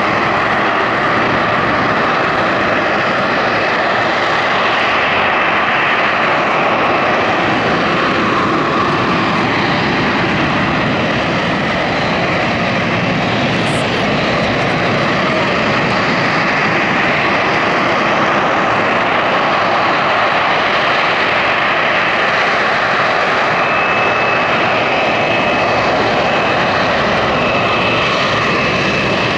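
Aircraft engine noise, loud and steady throughout.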